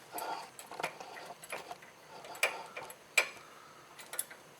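Irregular light metallic clicks and short scrapes as a bolt is started by hand through a steel mounting bracket into a nut plate in the chassis, about five sharp ticks spaced a second or less apart.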